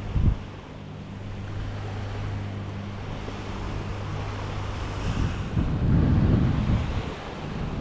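Surf washing on the beach with wind buffeting the microphone, the wind gusting loudest a little after five seconds in. A steady low hum sits under it and fades out about five seconds in, and there is a short thump at the very start.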